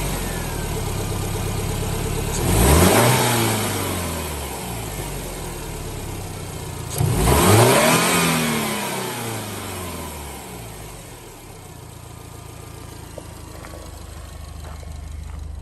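Subaru WRX STI's EJ207 turbocharged 2.0-litre flat-four idling and revved twice, about two and a half and seven seconds in. Each time the pitch rises and falls back to idle, and after the second rev the idle drops and quietens.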